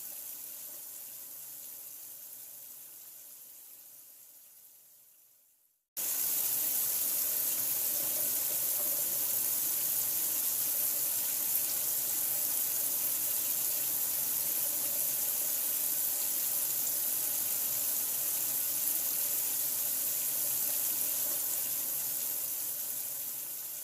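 Steady, even rush of running water. It fades to silence over the first six seconds, cuts back in abruptly, and begins fading out again near the end.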